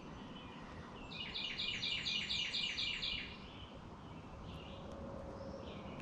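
A songbird sings a run of about ten quick, evenly repeated high notes over two seconds, starting about a second in, against faint outdoor background noise.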